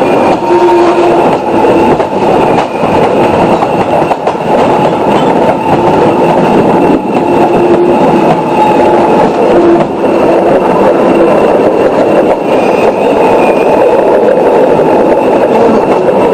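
Retro passenger train hauled by the Ty2 steam locomotive running along the track: a steady loud rumble, with faint steady tones that come and go over it.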